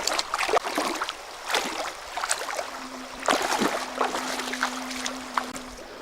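Water splashing and sloshing in irregular strokes in a river, with a faint steady hum during the second half.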